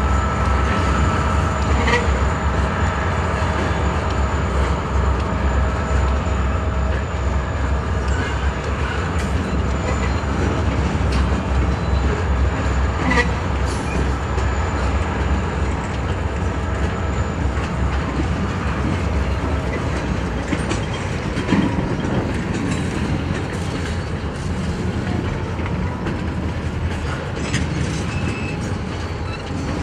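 Freight cars (covered hoppers, boxcars and a tank car) rolling past on the rails: a steady rumble of steel wheels on track, with a few sharp clicks scattered through it.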